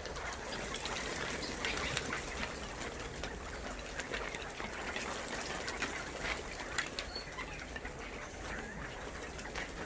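Flock of chukar partridges calling, many short clucking calls overlapping, over a steady low hum.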